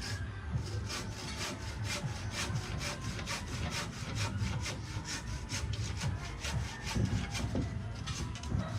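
Handsaw cutting through coconut wood in quick, even back-and-forth strokes, about four a second.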